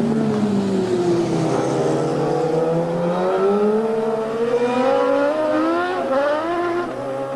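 Several racing motorcycle engines running at once, overlapping, their pitch climbing as they accelerate from about three seconds in.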